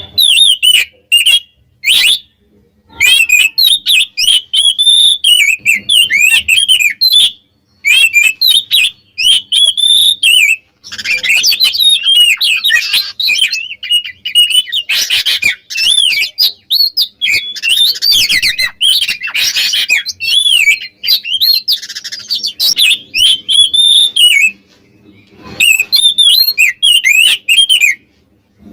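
Oriental magpie-robin (kacer) in full song: loud, fast runs of varied rising and falling whistles and chattering notes, broken by short pauses.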